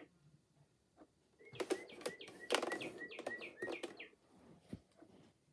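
Recorded northern cardinal song from a bird clock: a quick run of repeated down-slurred whistled notes, starting about one and a half seconds in and stopping about four seconds in.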